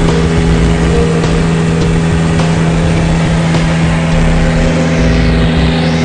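Small propeller airplane's piston engine and propeller running steadily, heard from inside the cockpit as a loud, even drone.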